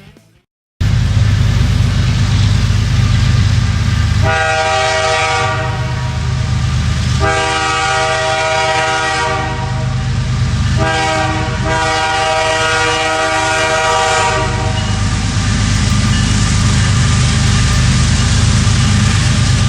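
Canadian Pacific diesel locomotive passing, its engine rumbling steadily, with the air horn sounding three times, the last blast the longest. The sound starts abruptly about a second in.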